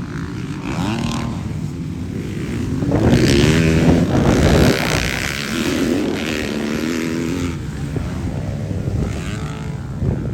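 Motocross bike engines revving, their pitch rising and falling as the riders work the throttle. The sound is loudest about three to five seconds in.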